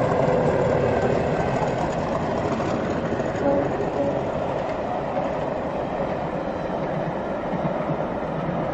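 Diesel train passing on the neighbouring line, with a steady rumble and wheels clattering over the rail joints, heard on an old cassette recording.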